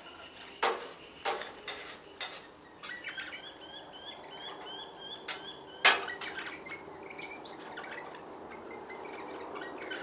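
Sharp clinks and taps, like beaks or feet striking a feeding dish, the loudest about six seconds in, with a run of quick, evenly repeated short bird chirps between about three and five and a half seconds.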